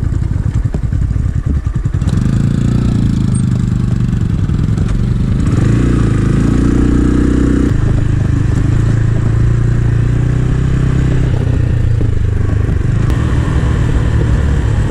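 Small-displacement 250 cc motorcycle engine. For the first couple of seconds it chugs unevenly at low speed, then it pulls away and accelerates with rising pitch. About halfway through there is a sudden drop at a gear change, after which it settles into a steady run.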